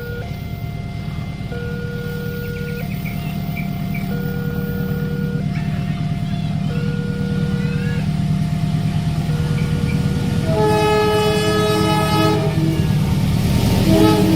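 Railway level-crossing alarm sounding its alternating two-tone warning, switching tone about every second and a half, while an approaching diesel locomotive's low rumble grows steadily louder. About ten seconds in, the train's horn blows for about two seconds, followed by a short toot near the end.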